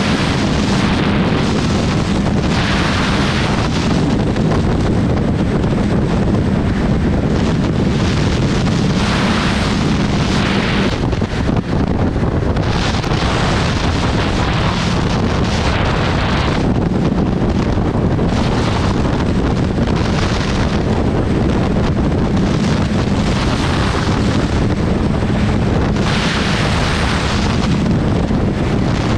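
Kawasaki Z1000SX inline-four engine running steadily while the motorcycle is under way, mostly buried under heavy wind buffeting on the microphone.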